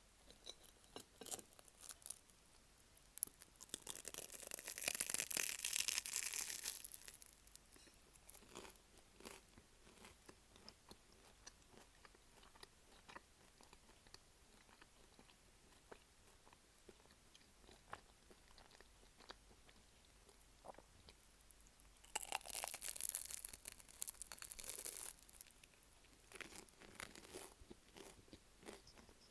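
Close-up crunching of a flaky, crisp pie crust being bitten and chewed, with a beef stew filling. There are two longer stretches of crunching, a few seconds in and again near the end, with quieter chewing clicks between.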